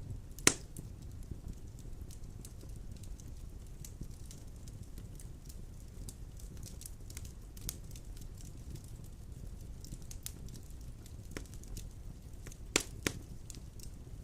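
Wood fire of large logs in a stone fireplace burning with a steady low rumble and scattered crackles, with a loud sharp pop about half a second in and two more close together near the end.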